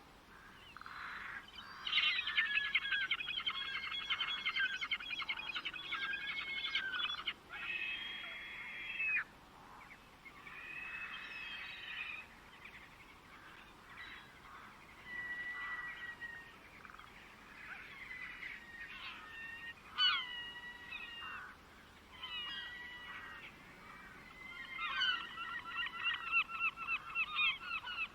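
Songbirds singing: fast runs of trilled, repeated chirps, with single whistled notes and short rising and falling calls in between. The densest trilling comes about two seconds in and again near the end.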